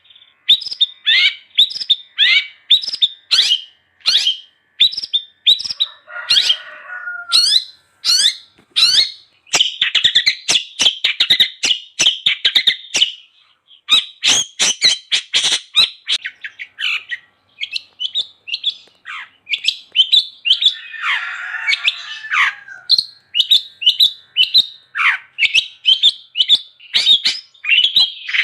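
Long-tailed shrike singing vigorously: a fast, unbroken run of sharp chirps and rapid trills, broken twice (about 6 s and 21 s in) by harsh, raspy calls.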